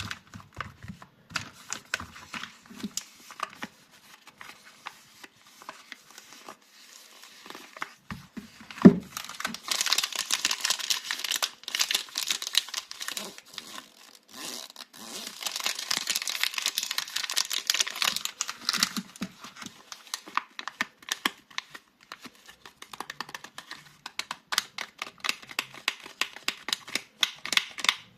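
Soap bar packaging crinkling and tearing as the bars are unwrapped by hand, with scattered taps and clicks. A single sharp knock about nine seconds in, then two longer stretches of dense crinkling.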